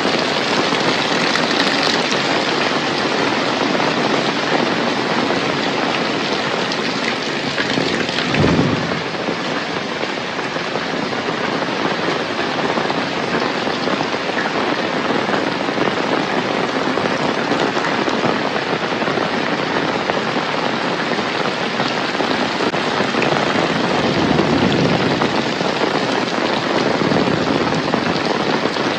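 Heavy rain pouring steadily. Its even hiss is broken once, about eight seconds in, by a brief low thump.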